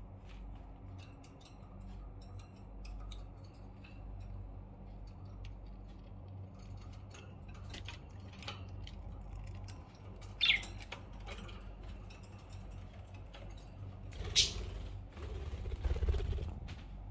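Pet budgerigars making occasional short chirps, with one sharp call about ten seconds in and a louder one a few seconds later, among many small clicks and ticks. A steady low hum runs beneath.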